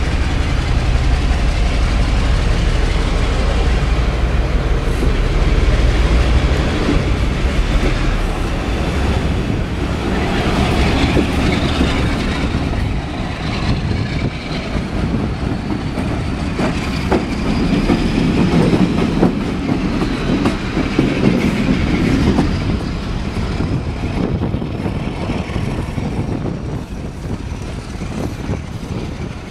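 Diesel-hauled heritage passenger train running, heard from an open coach window: a steady rumble with the wheels clicking over rail joints. A faint rising whine comes in from about halfway through.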